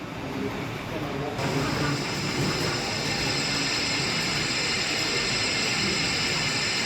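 Model train running on an exhibition layout, with a low murmur of hall chatter; a steady high hiss comes in suddenly about a second and a half in.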